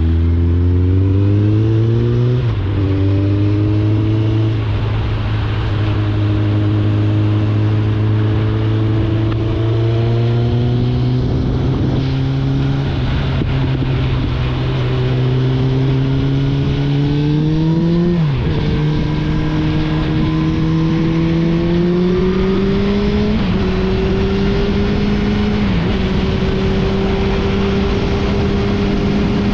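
Suzuki GSF 650 Bandit's inline-four through an Akrapovic exhaust, under way on the road. The engine note climbs and drops at an upshift about two and a half seconds in, then holds and creeps up until a sharp dip a little past halfway. Two smaller dips follow before it settles into steady cruising.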